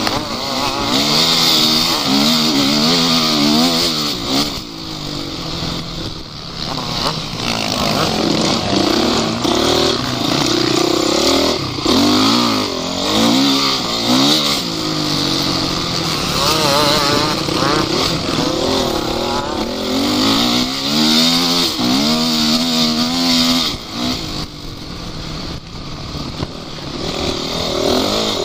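Off-road vehicle engine running under load, revving up and down again and again, with a loud hiss of noise throughout.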